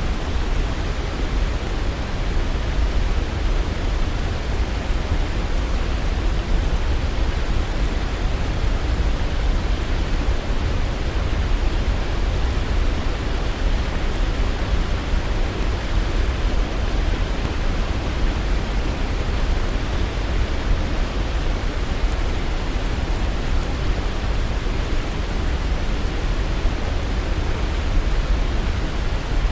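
Waterfall, a steady, even rush of falling water, heaviest in the low end, with no birdsong or other events standing out.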